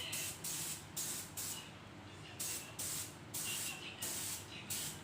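Aerosol spray paint being sprayed in a run of short hissing bursts, about two a second, as paint is dabbed onto a wheel rim for a marble effect.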